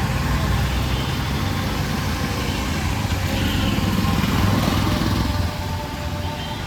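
A small engine running, with a steady low hum that swells to its loudest about four to five seconds in and eases off after that, over general street traffic.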